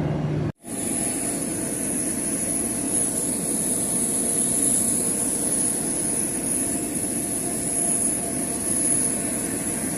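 Airliner jet engines heard from inside the passenger cabin: a steady rush with a thin high whine and a faint steady hum. The sound cuts out abruptly for an instant about half a second in, then resumes unchanged.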